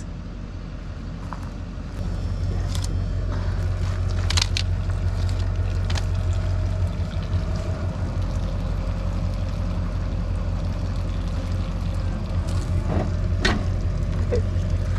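Vehicle engine running with a steady low hum that gets louder about two seconds in, with a few light clicks and knocks over it.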